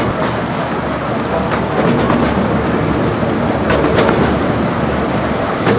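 15-inch gauge miniature railway train running, heard from its open passenger carriage: a steady rumble of the wheels on the track with a few sharp clicks.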